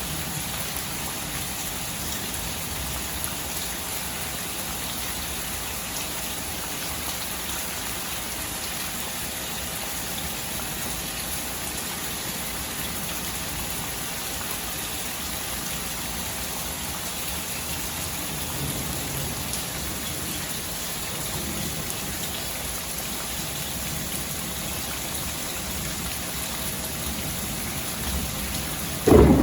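Steady rain falling and pattering on surfaces, an even hiss with no break. Right at the end a loud clap of thunder suddenly breaks in.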